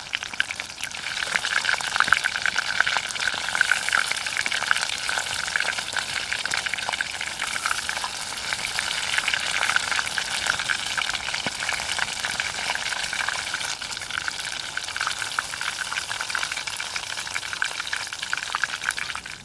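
Breaded oysters deep-frying in hot oil: a dense, steady sizzle with many small crackles, growing louder about a second in.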